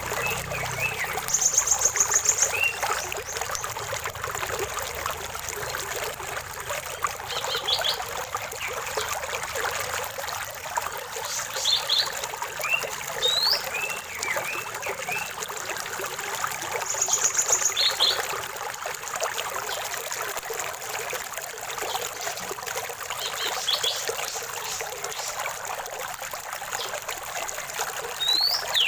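Running water trickling steadily, with birds calling over it: a fast high trill about a second in and again in the middle, and short chirps and whistled sweeps scattered throughout.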